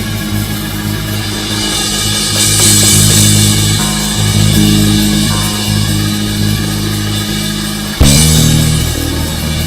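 Band music with guitar, bass guitar and drums, holding sustained chords, with a loud hit and a change of chord about eight seconds in.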